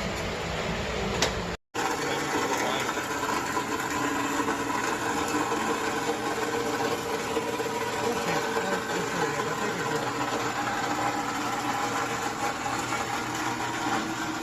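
A car engine running steadily at idle, a constant mechanical drone, with a brief cut in the sound about a second and a half in.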